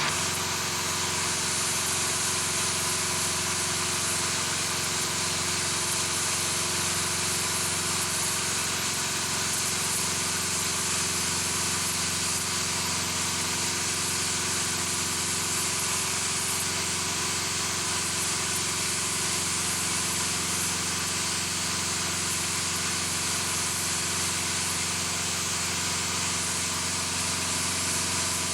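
Steady machinery noise: a constant hum with several fixed tones under an even hiss, unchanging.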